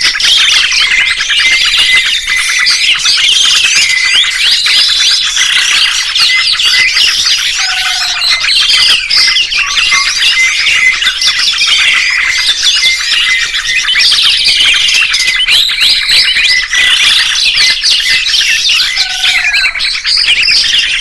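Dense songbird chirping and twittering: many quick, overlapping high chirps and whistles with no pause. It is a 'masteran' recording, the kind played to train caged songbirds, and the sequence seems to repeat about every 11 seconds.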